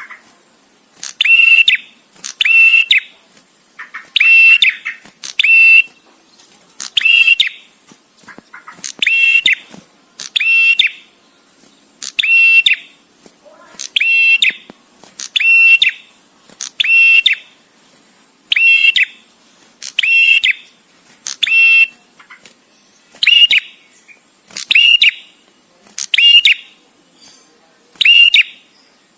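Male prenjak tamu, a prinia, calling: a short, sharp, high note repeated at an even pace about once every second and a half, with brief pauses between calls.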